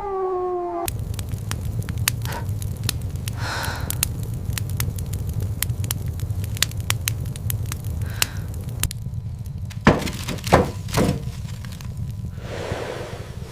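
A fire crackling, with many sharp pops over a steady low rumble. About ten seconds in come three heavy knocks or cracks, and near the end a whoosh swells up.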